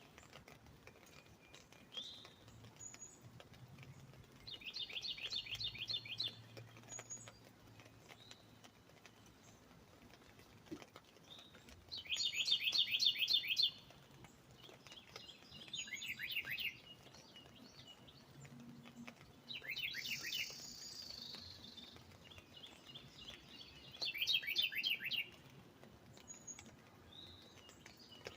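A northern cardinal singing five phrases of quick repeated down-slurred notes, each a second or so long, over a faint patter of raindrops on an umbrella.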